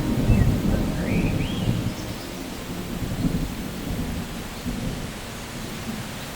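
Thunder rumbling over steady rain. The rumble is heaviest in the first two seconds and then dies down to a lower roll, while the rain goes on evenly.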